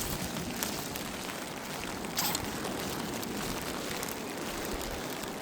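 Steady rain falling, an even hiss speckled with the light patter of drops, with a brief louder hiss about two seconds in.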